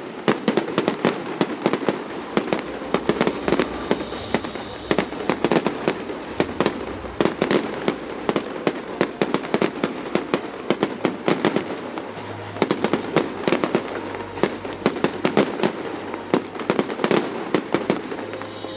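Fireworks going off in a continuous barrage of sharp bangs and crackles, several a second.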